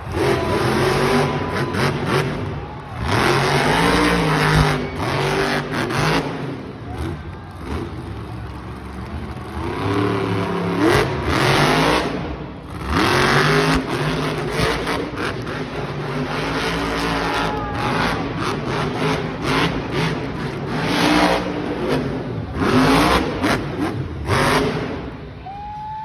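Monster truck engine revving hard over and over, its pitch sweeping up and falling back several times, with the noise of a big motor under load in between.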